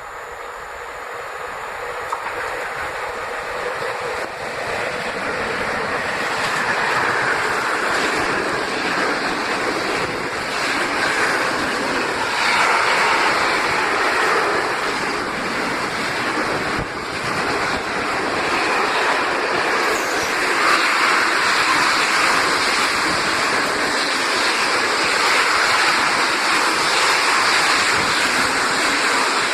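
Train passing on the line, the noise of its wheels on the rails growing louder over the first several seconds and then holding steady with slight swells.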